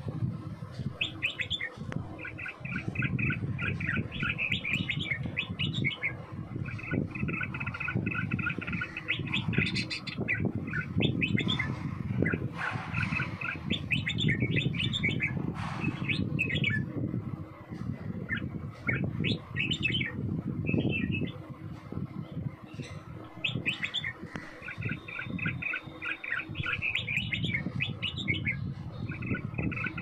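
Small songbirds chirping in rapid, repeated runs of short notes, over a low background rumble.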